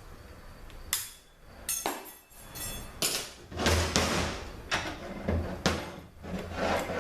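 Metal parts of a THM-350 automatic transmission's direct clutch drum knocking and clinking as the drum is taken apart by hand: a string of sharp knocks, roughly one a second.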